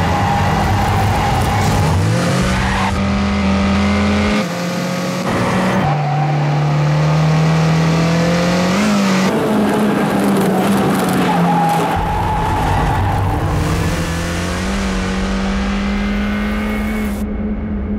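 Turbocharged 2.0-litre four-cylinder engine of a 2015 Honda Civic Type R running hard at high revs on track, its pitch climbing steadily under acceleration and dropping abruptly several times.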